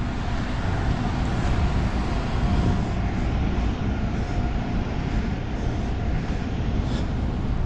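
A bus's engine running steadily, with a faint whine held through the middle.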